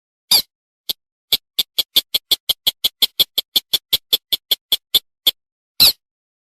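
Recorded call of a slaty-breasted rail: a short harsh note, then a run of sharp ticking notes at about five a second, then another harsh note near the end.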